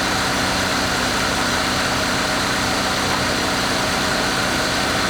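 Steady drone of a heavy vehicle engine idling, unchanging throughout.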